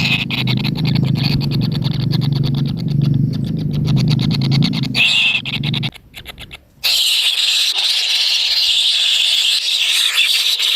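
Kingfisher chicks calling: a dense, rasping begging chorus with rapid clicks and a low buzz. It breaks off briefly about six seconds in, then resumes as a higher, noisier rasp.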